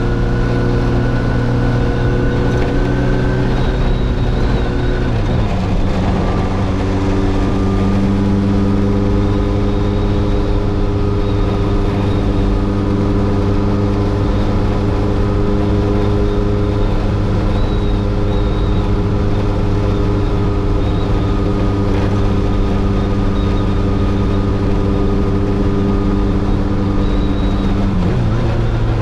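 Kawasaki Zephyr 750 motorcycle's air-cooled inline-four engine running at a steady pitch, heard from the rider's seat. The pitch changes about five seconds in, then holds steady until it shifts again near the end.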